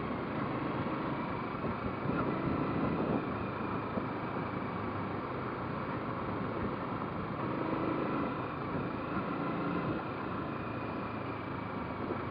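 Motorcycle running steadily while being ridden, its engine mixed with road and wind noise.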